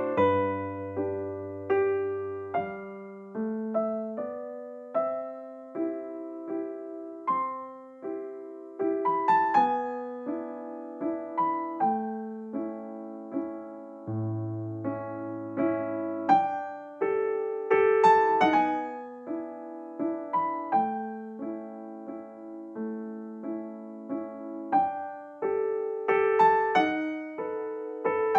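Soft background piano music: a slow melody of struck notes over sustained low chords.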